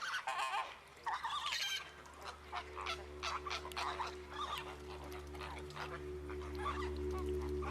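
A flock of flamingos honking, many short goose-like calls overlapping, loudest in the first two seconds. A low, steady music drone comes in about a second and a half in and slowly grows louder beneath the calls.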